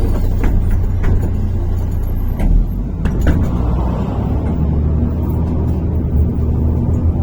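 Inside a MAZ-103.485 city bus under way: a steady low engine and road drone, with a few short knocks and rattles from the body.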